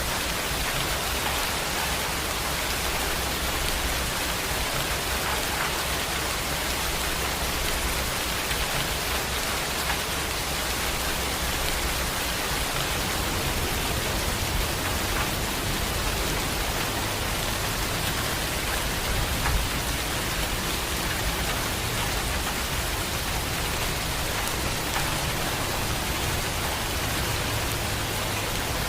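Heavy rain falling steadily in an even, unbroken hiss, with a low rumble underneath.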